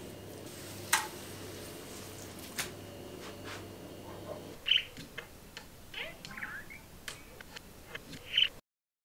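A steady low hum with a few sharp clicks, which stops about halfway through. A small bird then gives several short, high chirps, some gliding in pitch, until the sound cuts off just before the end.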